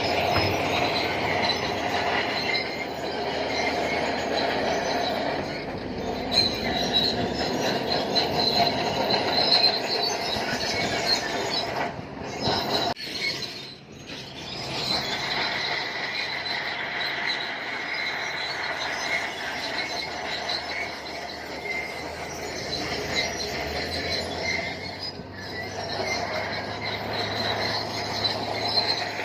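Crawler bulldozer at work, its steel tracks giving a steady high squeal over the running machine, with a brief lull about thirteen seconds in.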